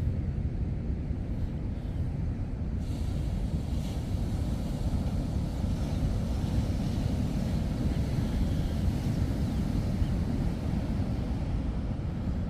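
Steady low rumble of heavy surf breaking and washing into an estuary mouth, with a hiss of foaming water rising from about three seconds in.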